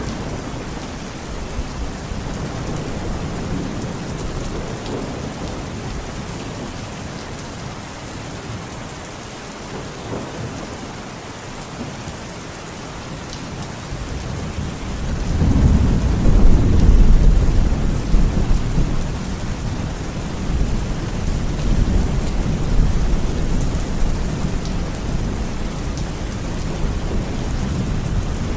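Steady heavy rain, with a deep thunder rumble that swells about halfway through and slowly fades.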